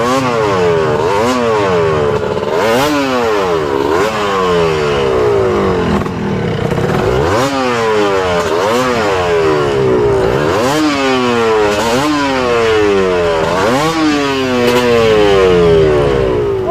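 Off-road trail motorcycle engine revving up and dropping back again and again as the rider works the throttle over rough ground, with some clattering.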